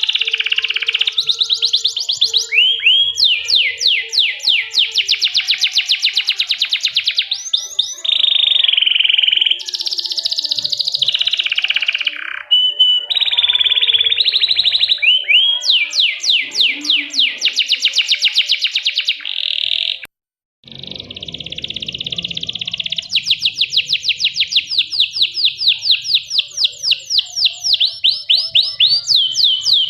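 Domestic canary singing a long, loud song of fast trills and rolls of rapidly repeated high notes, with a brief break about two-thirds of the way through.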